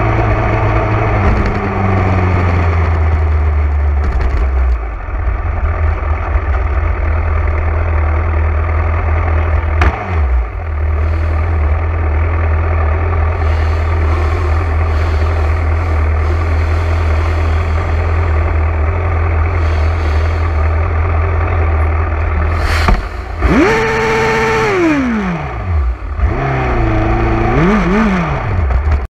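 Motorcycle engine running under way, a steady low rumble. Near the end the revs swing: a sharp crack, then the pitch drops steeply, and it rises and falls once more.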